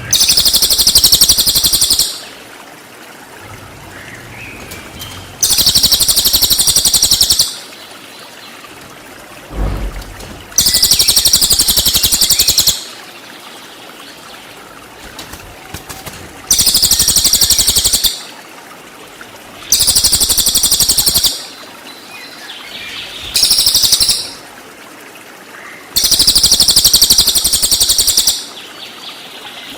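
Cililin song-bird giving repeated bursts of a very high, shrill rapid trill, its 'tembakan' shot calls, about seven bursts of one to two seconds each with short pauses between.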